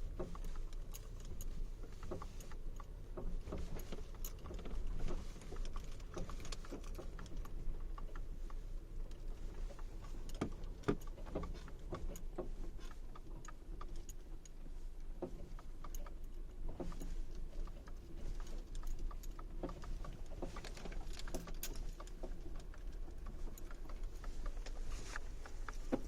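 Irregular light knocks and rattles from the right front of a Honda Civic 5-door hatchback, scattered unevenly over a steady low rumble. It is a knock the owner locates at the front right corner.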